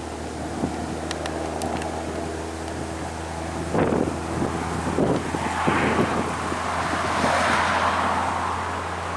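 Vehicle passing on the road: a steady low engine hum, then a rush of engine and tyre noise that builds from about four seconds in, with a few thumps, and is loudest near the end.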